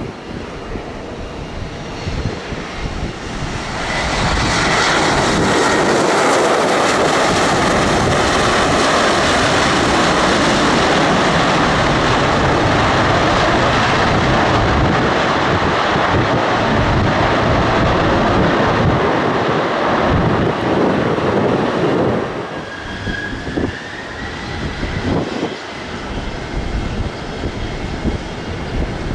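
Aircraft engines roaring at close range: the roar swells about four seconds in, holds steady and loud, then falls away about twenty-two seconds in, leaving a fainter running sound with a thin whine that rises slightly near the end.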